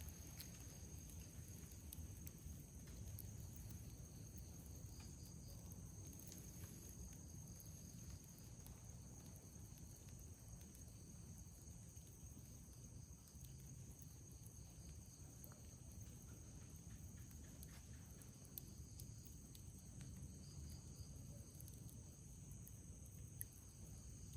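Faint night insects trilling steadily at a high pitch over a low rumble, with a few faint pops from the campfire, the sharpest near the end.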